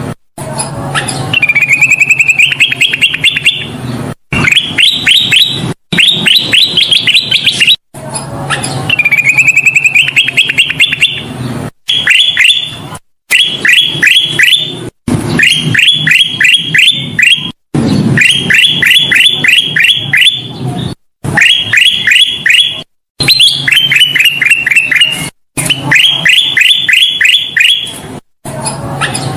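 Kutilang emas (a bulbul) singing: repeated phrases of rapid chirping trills, each one to three seconds long, cut apart by sudden short silences as in a looped, spliced recording. A low hum runs beneath the song.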